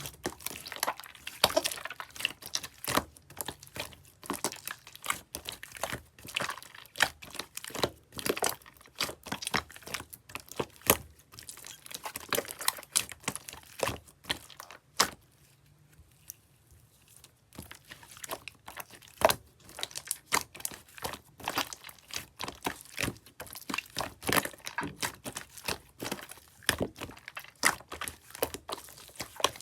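Slime being squeezed, folded and pressed by hand, making dense, irregular crackling and popping clicks, with a pause of about two seconds midway.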